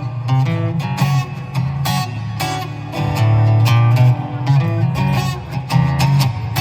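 Guitar music: a plucked guitar playing a run of notes over sustained low bass notes.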